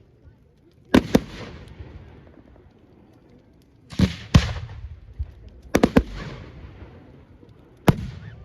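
Fireworks display: aerial shells bursting with sharp bangs, several coming in quick pairs or triples, about seven or eight in all. Each bang trails off in a fading rumble.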